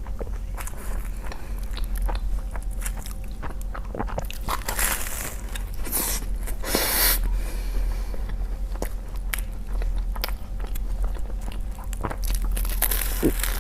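Eating seasoned noodles close to the microphone: wet chewing and mouth clicks, with two longer noisy bursts about five and seven seconds in.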